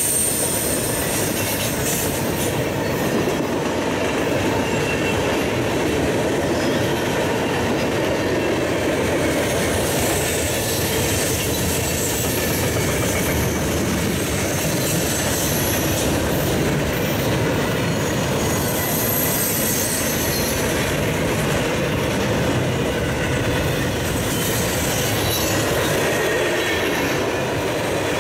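Freight train cars rolling past at speed: a steady rumble and clatter of steel wheels on rail, with a thin high wheel squeal now and then.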